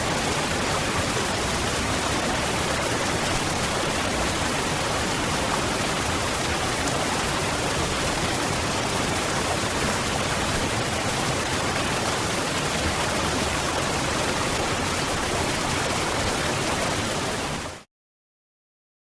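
Waterfall: a steady, even rush of falling water that fades out quickly to dead silence about a second before the end.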